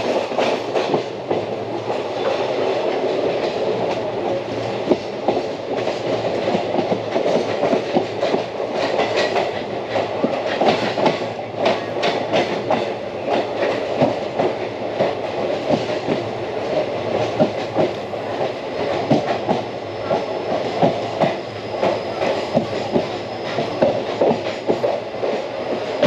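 Indian Railways passenger coach running along the track, heard from its open doorway: a steady rumble of wheels on rail with frequent clicks and clatter from the wheels and coach.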